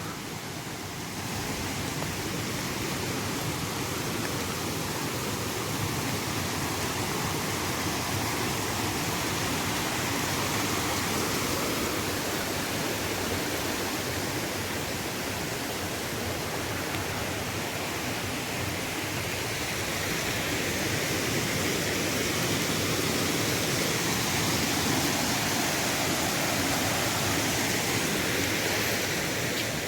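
Fast-flowing stream, swollen with rain, rushing steadily: a raging torrent.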